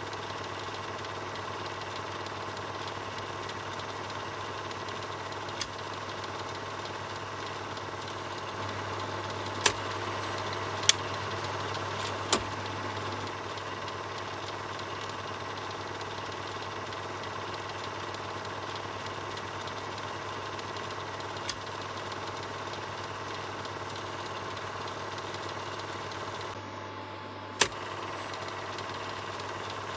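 Film projector running steadily: a continuous mechanical whir over a low hum, broken by a few sharp clicks, the loudest a cluster about ten to twelve seconds in and one near the end after a brief drop in the whir.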